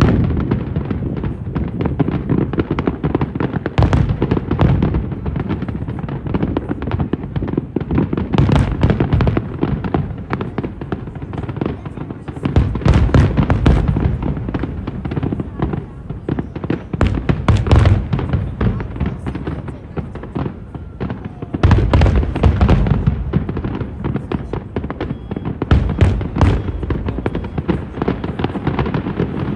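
Aerial fireworks display: a dense, continuous run of shell bursts and crackling with deep booms, swelling into louder barrages several times.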